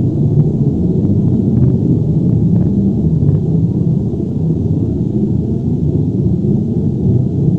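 Earthquake/avalanche rumble sound effect: a continuous deep, low rumble with a few faint crackles scattered through it.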